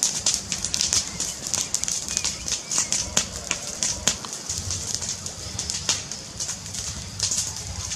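Fireplace fire crackling: a dense run of sharp snaps and pops over a low rumble of flames.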